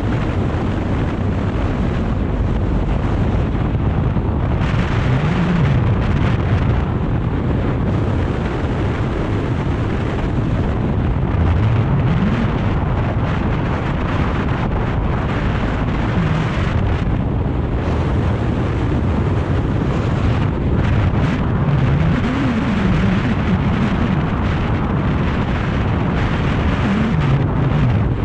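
BMW R 1250 GS boxer-twin engine running on the move, its pitch rising and falling several times with the throttle, under heavy wind noise on the microphone.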